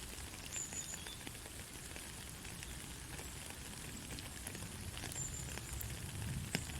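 Soft rain falling steadily, an even hiss scattered with small drop ticks, with one sharper drop about six and a half seconds in. Two brief, faint high chirps come about half a second and five seconds in.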